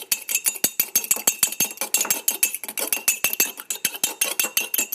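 Metal fork whisking a raw egg in a ceramic mug: fast, continuous clinks of the tines against the sides of the mug, several strokes a second.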